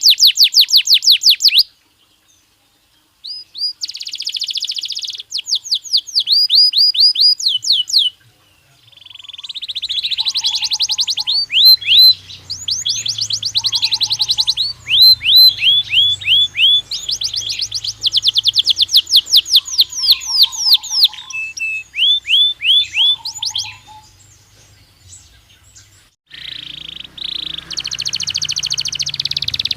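Belgian canary singing in fast, high-pitched trilled phrases, each note repeated several times a second in runs of a few seconds. The song breaks off briefly twice.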